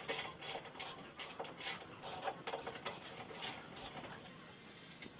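A blade sawing back and forth through the rubber inside a metal engine mount, in quick even rasping strokes about three a second that stop about four seconds in.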